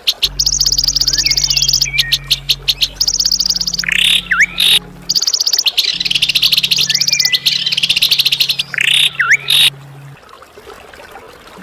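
Songbirds singing in bursts: rapid, high, buzzy trills and sharp repeated notes with short sweeping calls, over a steady low hum. The bird sounds stop about ten seconds in.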